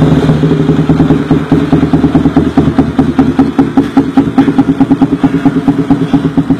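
Honda CBR sport bike idling through an X Speed full-stainless racing exhaust, a loud, fast, uneven throbbing beat.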